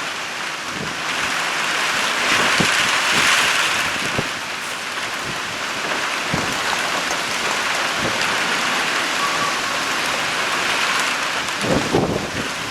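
Heavy rain pouring down, with scattered drops ticking, swelling louder about two seconds in.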